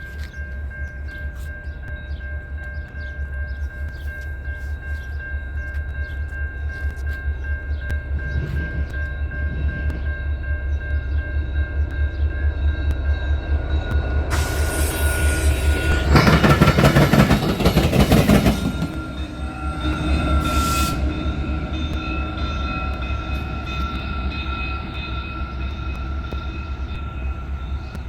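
Illinois Central SD70 diesel locomotive, its EMD two-stroke engine drumming low, running light with no cars and growing louder as it comes on. A loud horn blast and the rumble of the passing locomotive peak about halfway through.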